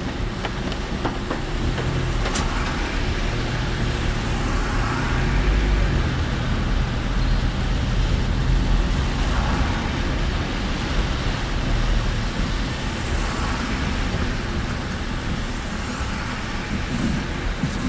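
Steady road noise of a car driving through a typhoon's rain and wind: a low rumble of engine and tyres on the wet road with an even hiss over it, rising a little in the middle.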